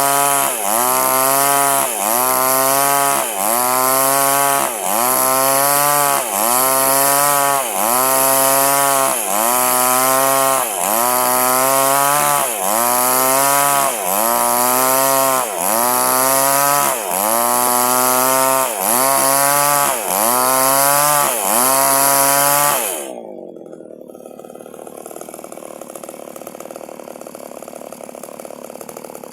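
Small chainsaw cutting durian wood under load, its engine pitch dipping and recovering in a regular rhythm about every second and a half as the saw works through the cut. About 23 seconds in the engine drops back to a quieter steady idle.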